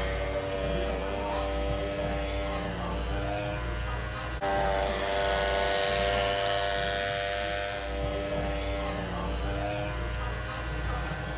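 Cordless Master hair clipper running with a steady buzz. About four and a half seconds in, the sound shifts and grows louder and brighter for about three seconds, then settles back to the earlier buzz.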